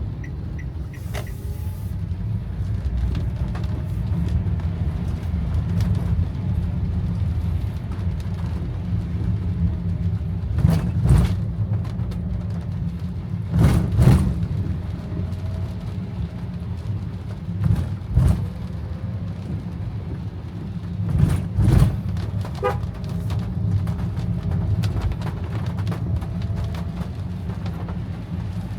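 Car driving in heavy rain, heard from inside: a steady low rumble of engine and wet road, with a faint wash of rain above it. Four short, louder swishes or thumps come a few seconds apart in the middle stretch.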